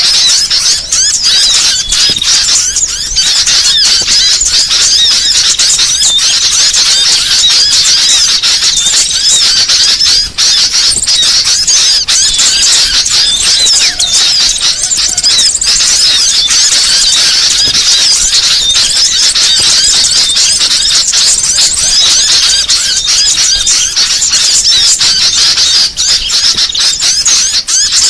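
Dense, loud, continuous chorus of many small birds chirping and twittering over one another, high-pitched and agitated: a bird-lure (pikat) recording of alarmed, noisy small birds, used to draw small birds in.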